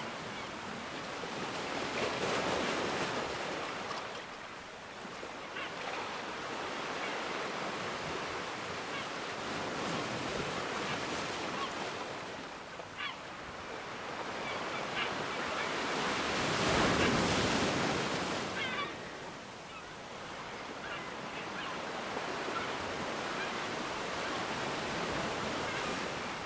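Ocean waves breaking and washing in, a steady rush that swells and ebbs every few seconds, with the biggest surge about two-thirds of the way through.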